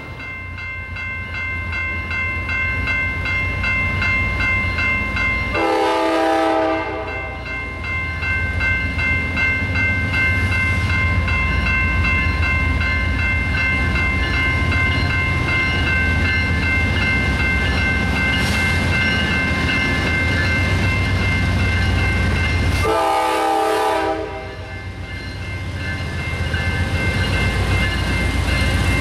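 Grade-crossing warning bell ringing steadily as a Norfolk Southern freight train's diesel locomotives approach with a building low rumble. The locomotive horn sounds a short chord about six seconds in and again about twenty-three seconds in.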